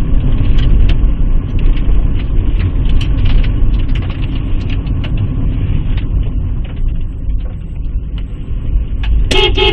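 Car dashcam audio of a car driving: a steady low road and engine rumble with scattered small clicks. Near the end, a car horn sounds in short honks.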